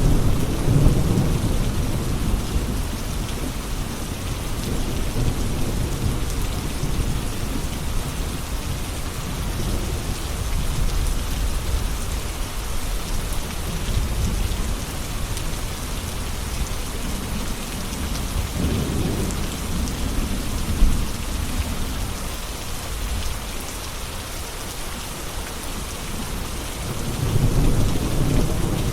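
Steady heavy rain falling, with low rolls of thunder that swell about a second in, again past the middle, and near the end.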